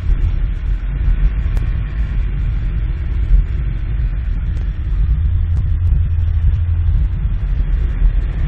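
Motor vehicle engine running steadily with a deep, low rumble.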